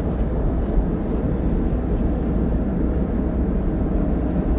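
Steady low rumble of a motor vehicle running, even throughout.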